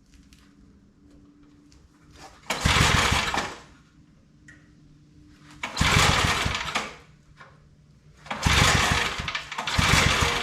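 Old 5 hp Briggs & Stratton single-cylinder engine being pull-started four times, each pull turning it over loudly for about a second without it catching and running; the last two pulls come close together. The owner puts the hard starting down to a fuel problem.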